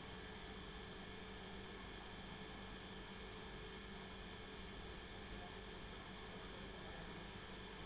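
Steady, faint electrical hum over an even hiss, with no other distinct sounds.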